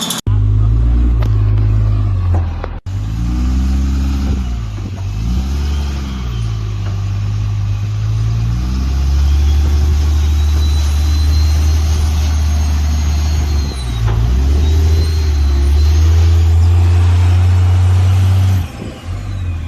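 Diesel truck engine running loud and deep, revved up and down a few times early on and then held at a steady drone. The sound cuts out sharply twice near the start and drops away shortly before the end.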